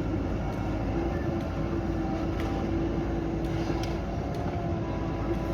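Diesel engine of a JCB backhoe loader running steadily, with a thin steady whine from about half a second in until about four seconds.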